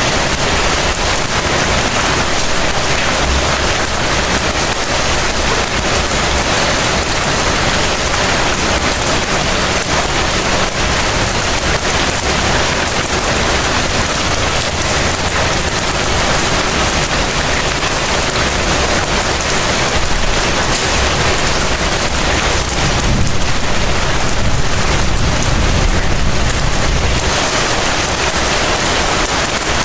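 Heavy rain falling steadily, a dense even hiss. A low rumble swells for a few seconds about three-quarters of the way through.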